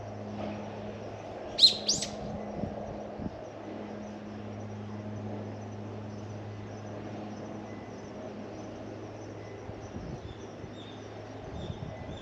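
A bird giving two sharp, high calls in quick succession, over a steady low hum.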